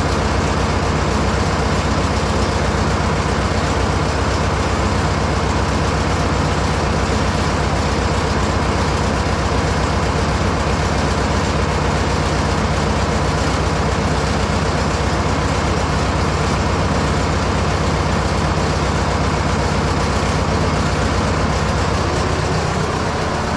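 Fordson Major tractor engine running steadily, turning the PTO-driven hydraulic pump of the Kubota 130 backhoe; its note shifts slightly near the end.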